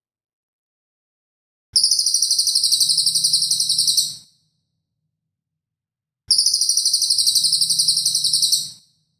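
A songbird's harsh, rapid-fire 'tembakan' call, a fast stutter of very high-pitched rasping notes, given twice in identical bursts of about two and a half seconds: one about two seconds in and one about six seconds in, with silence between.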